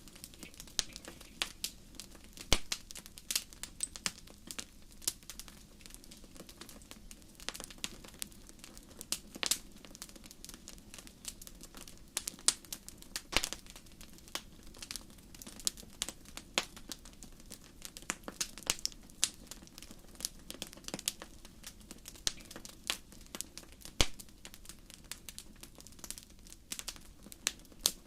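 Wood fire crackling: irregular sharp pops and snaps, several a second and of varying strength, over a faint steady low noise.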